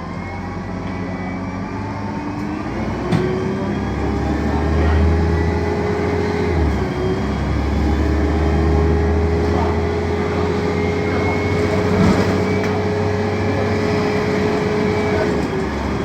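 City bus's Mercedes-Benz OM 906 LA turbo-diesel inline six running under load as the bus gets under way, a low rumble with a drivetrain whine that rises over the first few seconds and then holds steady. The rumble drops out briefly about seven seconds in, like a gear change in the Voith automatic gearbox.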